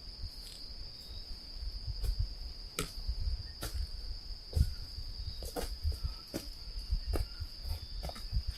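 Insects chirring in a steady high-pitched drone, with scattered snaps and rustles of a hiker moving through forest litter.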